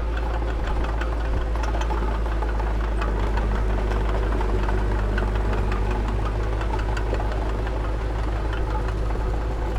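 Diesel engine of heavy earthmoving equipment running steadily, with a deep rumble and a light knocking clatter.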